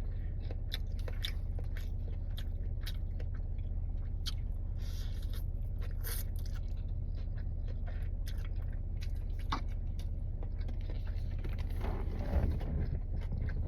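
A person chewing and biting food close to the microphone, with many short wet mouth clicks, over a steady low hum.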